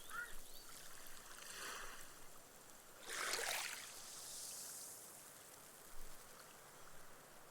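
A small, gentle wave washes up a sand beach, surging about three seconds in. It is followed by a soft high fizz as the foam soaks into the sand and vanishes. A single bird chirp is heard right at the start.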